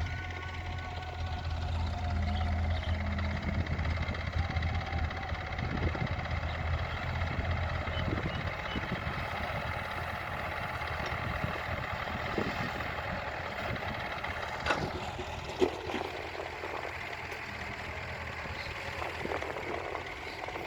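Tractor's diesel engine running steadily with a low hum, louder for the first several seconds and then quieter. Two sharp knocks about fifteen seconds in.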